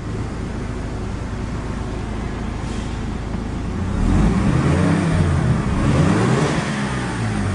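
1993 Mazda RX-7's 1.3-litre twin-turbocharged rotary engine running steadily, then revved up and down repeatedly from about four seconds in.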